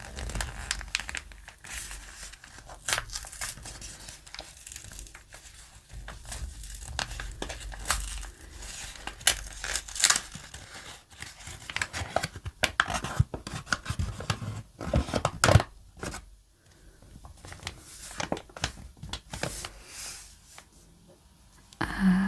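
Packaging being torn open and handled: irregular crinkling and tearing with sharp crackles scattered throughout.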